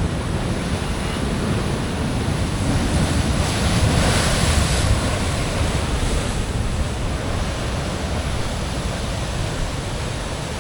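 Ocean surf washing against a rock ledge in a heavy swell, with wind on the microphone; a wave surges and washes up loudest about four seconds in, then eases back.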